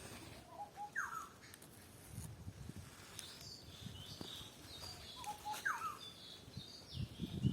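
Birds calling in the open. One bird gives the same phrase twice, a few quick low notes followed by a falling whistle, while other birds add short high chirps. Soft footsteps on the ground grow louder near the end.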